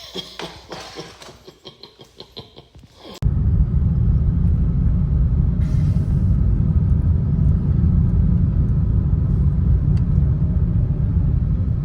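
Irregular clattering knocks for about three seconds, then, starting abruptly, the steady low rumble of a car on the road heard from inside the cabin.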